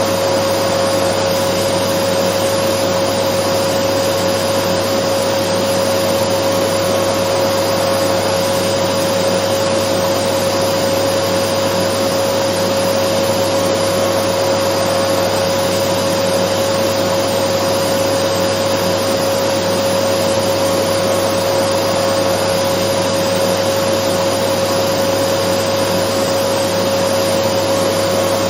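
Dyson vacuum cleaner running steadily as white noise: an unchanging rush of air under a constant motor whine.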